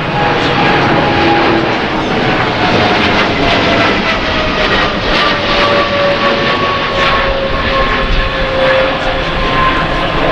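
Loud, steady rush of jet engine noise from a Boeing 777-300ER's twin GE90 turbofans as it climbs away in a turn. A whine in the noise slowly falls in pitch.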